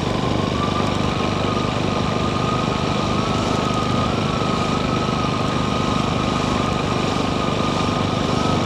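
Mash Five Hundred 400 motorcycle engine running at a steady speed on the move, its pitch holding even with no revving.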